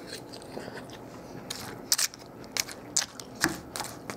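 Close-up chewing of a mouthful of taco salad with crisp fried tortilla chips: irregular sharp crunches, several a second, starting about a second and a half in.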